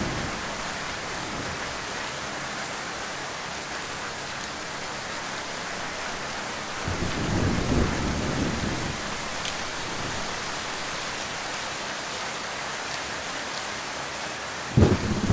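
Heavy rain falling steadily, with rolls of thunder rumbling in twice: once about halfway through, and again more loudly and suddenly near the end.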